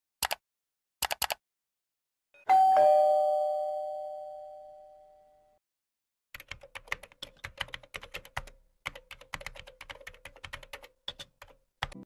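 A typewriter: a few key strikes, then the bell rings once and fades over about three seconds. Then computer keyboard typing, a fast run of key clicks lasting about five and a half seconds.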